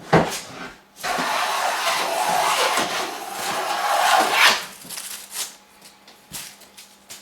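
Hand plane taking one long stroke along a wooden board, a continuous shaving hiss lasting about three and a half seconds from about a second in. A sharp knock comes just before it, with a few light clicks afterwards.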